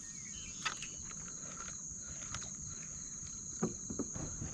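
Steady high-pitched chorus of insects such as crickets, with a few faint knocks and clicks.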